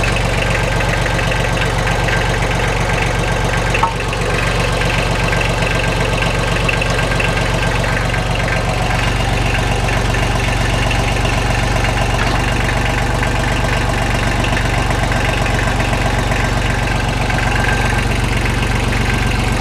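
Kubota L235 tractor's diesel engine idling steadily, with one sharp click about four seconds in.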